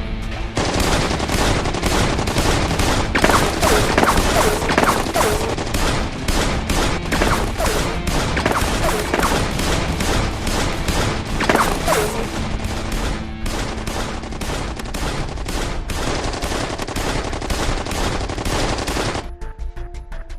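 Sustained rapid gunfire, many shots in quick succession, with several falling whistles over it. It stops suddenly near the end, leaving background music.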